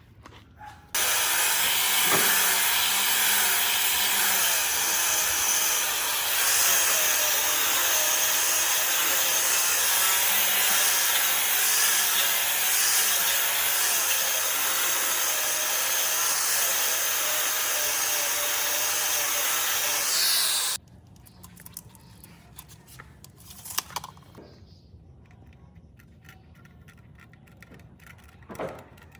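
A workshop tool running with a steady, loud hiss for about twenty seconds, starting and stopping abruptly. Quiet handling noises and two sharp knocks follow.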